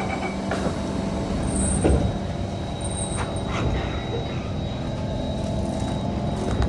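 Interior of a Kawasaki C151 metro train car, with a steady hum and a thin high tone from the car's equipment. A single loud thump about two seconds in fits the doors shutting.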